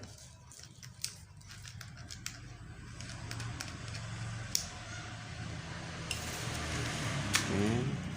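Handling of a mini grinder and its accessories: scattered clicks and rustling, with a short rising whine near the end.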